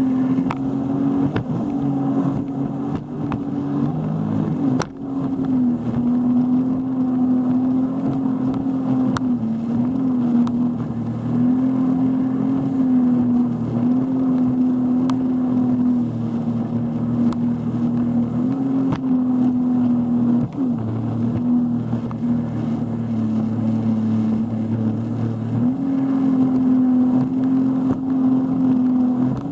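Motorboat engine running steadily, its pitch shifting slightly up and down now and then, with a few sharp clicks.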